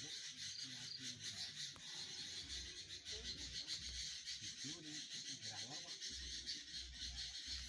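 Steady high-pitched rasping chatter of a large flock of small birds calling all at once.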